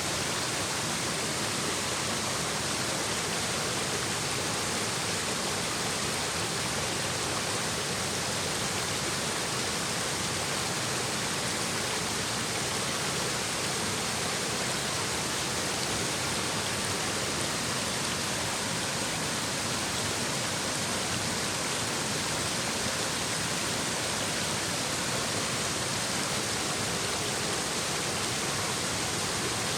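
A shallow stream babbling and rushing steadily over rocks, an even wash of water noise with no pauses.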